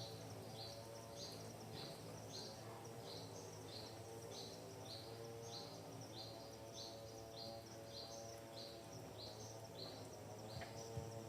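A bird calling a short, high, down-slurred note over and over in an even train, about two to three notes a second, with a faint low steady hum underneath.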